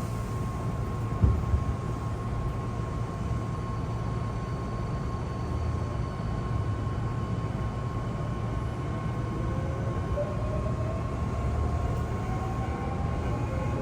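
Hankyu commuter train heard from inside the car, rumbling as it pulls away. A knock comes about a second in. From about two-thirds of the way through, the traction motors whine, rising in pitch as the train speeds up.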